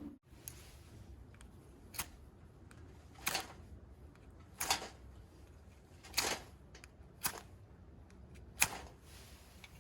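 A series of six sharp knocks, irregularly spaced about a second and a half apart.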